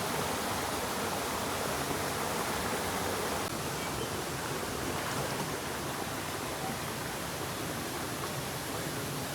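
Steady rushing of spring water running over small cascades, a continuous even wash that eases slightly about a third of the way in.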